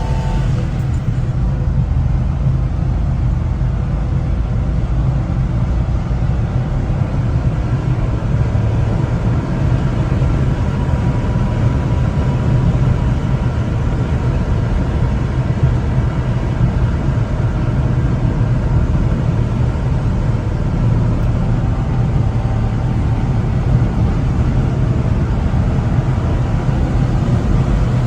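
1996 Honda Acty kei truck being driven, its small 660 cc three-cylinder engine running with a steady low drone over road rumble.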